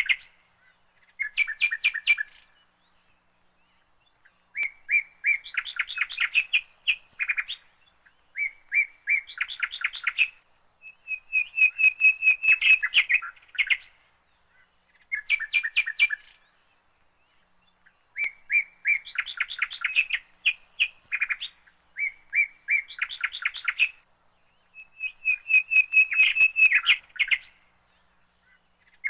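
A songbird singing in a series of phrases made of rapid repeated notes, each phrase one to three seconds long with short pauses between them.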